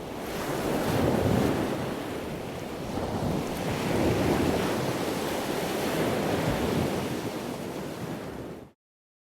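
Ocean surf, waves washing in and swelling in loudness about every two to three seconds, then cutting off suddenly near the end.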